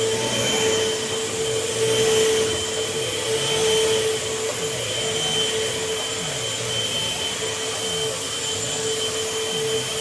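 Eureka vacuum cleaner running steadily while it is worked over a bed, a steady whine over the motor's rush of air. A low part of the sound dips and rises again about once a second as the nozzle is pushed back and forth.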